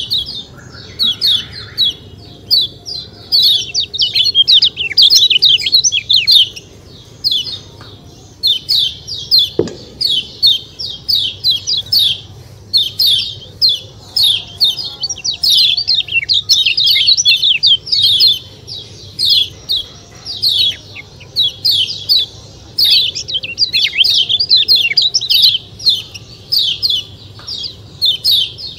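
Kecial kuning (a white-eye) calling in quick runs of sharp, high chirps that come in clusters with short gaps between them, without a break. There is a single click about ten seconds in.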